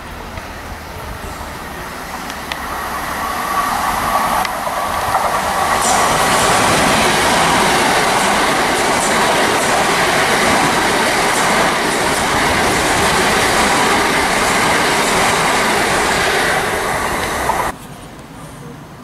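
Southern electric multiple-unit passenger train running along the station platform, wheels clattering on the rails. The noise builds over the first few seconds, holds loud, then cuts off suddenly near the end.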